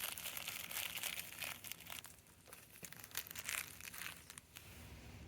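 Packaging crinkling and rustling in irregular bursts as packs of snapper novelty fireworks are handled and pulled out of their box.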